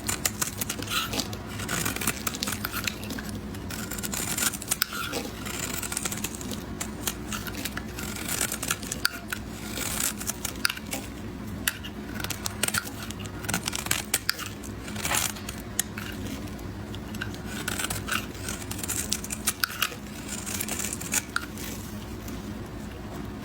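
Knife cutting through a bar of soap into small cubes: an irregular run of crisp, crunchy cuts and scrapes.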